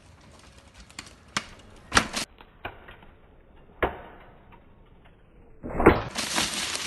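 Mountain bike clattering on a dirt trail: a series of sharp knocks and clacks, then a heavy thump about six seconds in followed by a steady rushing noise.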